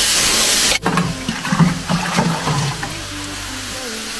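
Bean sprouts stir-frying in a hot oiled wok, a loud sizzling hiss that cuts off abruptly under a second in. After it come quieter clinks and a low steady hum.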